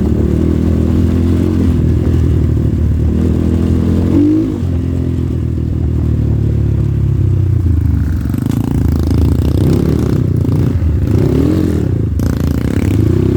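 Off-road motorcycle engine running under way, its revs rising and falling with the throttle. A sharp rev about four seconds in drops away briefly, and the revs climb and fall again near the end.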